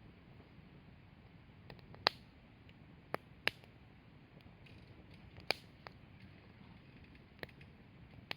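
Wood fire crackling: irregular sharp pops from the burning firewood, about seven of them, the loudest about two seconds in, over a faint steady hiss.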